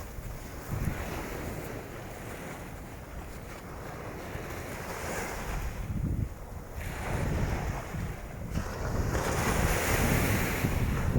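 Waves washing onto the shore in surges, with gusty wind buffeting the microphone in a low, uneven rumble. The surf grows louder near the end.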